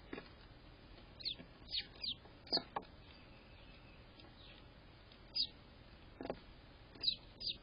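A bird's short, high chirps, each dropping quickly in pitch, repeated irregularly about eight times with a pause of a couple of seconds in the middle.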